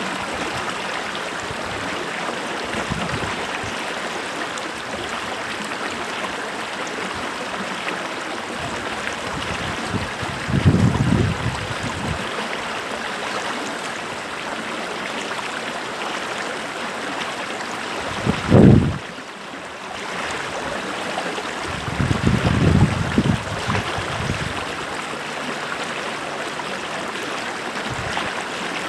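A creek's flowing water rushing steadily, with a few short low rumbles about ten, eighteen and twenty-two seconds in.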